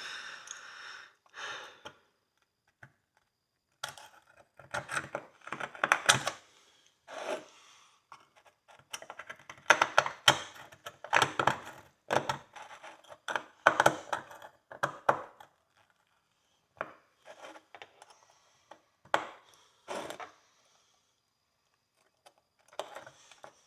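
A hand pick scraping dirt and rust out of an old pony horseshoe, in short clusters of scratchy strokes with quiet pauses between.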